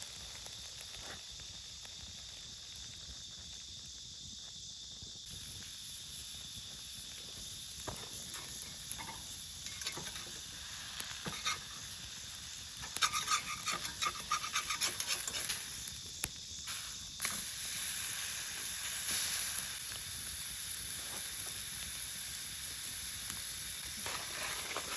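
Steak sizzling in a pan over a campfire: a steady hiss, with a run of sharp crackles and pops near the middle, and the sizzle growing brighter after that.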